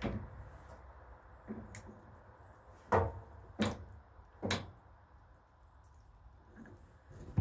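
A few sharp clicks and knocks of hand-tool handling while a rubber fuel hose is being clamped, three of them close together in the middle, with fainter ticks before them.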